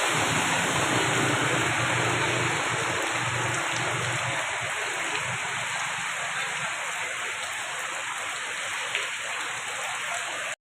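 Steady rushing hiss of water, with a low hum in the first few seconds that fades out.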